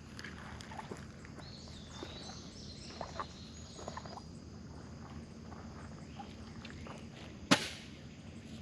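Light handling noise from sorting through greenhouse kit parts and hardware: scattered soft clicks and knocks, then one sharp clack about seven and a half seconds in. Faint high bird chirps can be heard behind.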